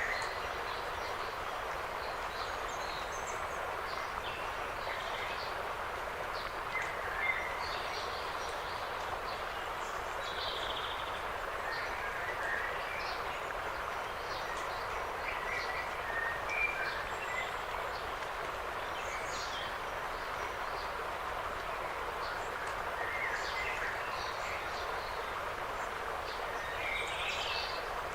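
Autumn forest ambience: a steady rushing of wind through the trees, with scattered short bird chirps and calls throughout.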